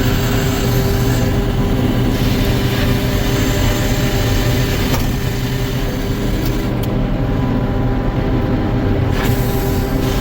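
Sawmill machinery running steadily: a loud, continuous mechanical drone with a steady hum.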